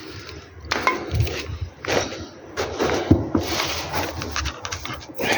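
Irregular knocks, clanks and rustling of hand tools being handled while loosening a tight 32 mm nut, with sharp strikes about a second in, near two seconds and near three seconds.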